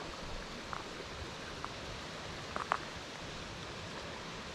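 Steady rushing of flowing creek water, with a few faint clicks and ticks over it, the sharpest a little past halfway.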